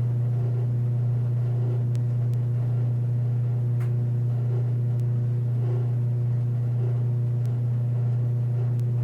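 Steady low electrical hum with a few faint, light clicks of small tools handling the watch.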